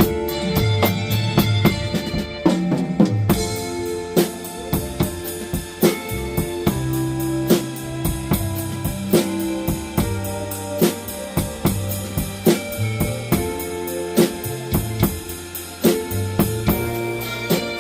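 Drum kit played in a steady blues groove of kick, snare and cymbal strokes, along with a blues backing track of bass and guitar.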